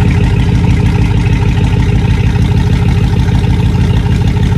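Vehicle engine running steadily and loud, with an even, fast pulse.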